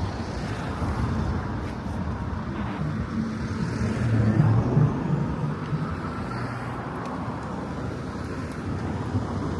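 Road traffic: a motor vehicle passing by, its low engine and tyre rumble swelling to a peak about four to five seconds in, then fading.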